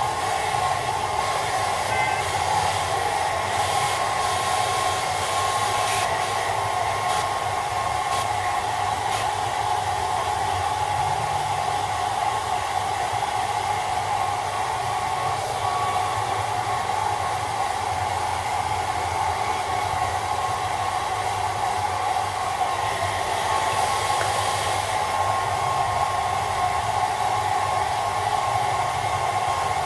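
Handheld hair dryer blowing steadily, a constant whoosh of fan and airflow.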